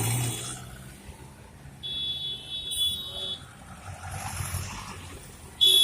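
Street traffic rumbling, broken twice by a shrill, steady high-pitched tone: once about two seconds in for over a second, and again, louder, near the end.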